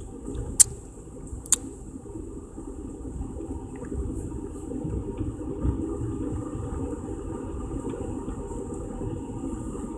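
Steady low rumble of a moving Amtrak passenger train heard from inside the car, with two sharp clicks about a second apart near the start.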